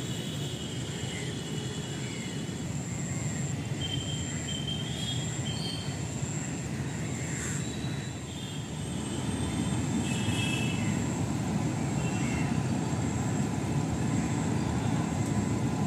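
Steady rumble of a passenger train running across a steel truss railway bridge, growing louder about halfway through.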